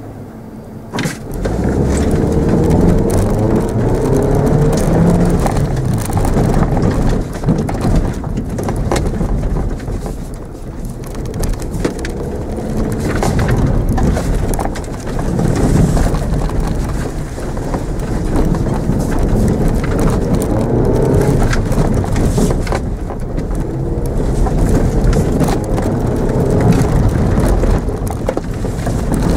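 Mitsubishi Mirage's engine heard from inside the cabin, revving up and falling back again and again as the car is driven hard on grass, over a steady rumble of tyres and body with frequent knocks and rattles. The engine noise jumps up about a second in as the car gets going.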